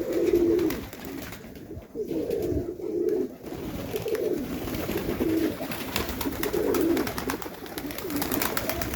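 Domestic pigeons cooing, low wavering coos repeating about once a second, with faint clicking in the second half.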